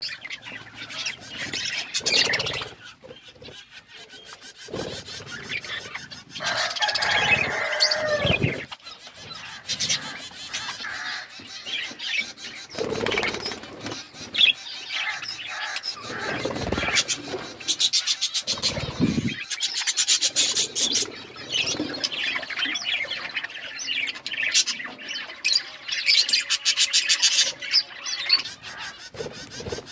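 Budgerigars chirping and chattering in a dense run of short, high calls, mixed with a few fuller warbling calls and scattered wing flaps.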